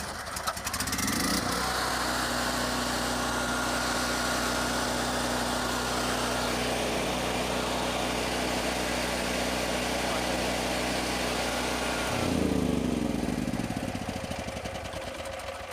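Sportsman 9000-watt portable generator's engine starting up and climbing to a steady governed speed within about a second and a half. It runs evenly, then is switched off about twelve seconds in and winds down.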